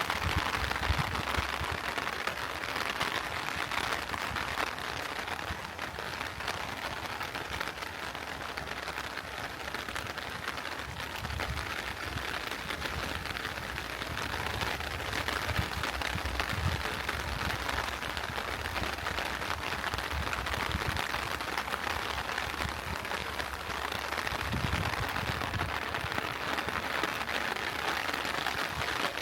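Heavy rain falling steadily, an even hiss, with occasional low rumbles underneath.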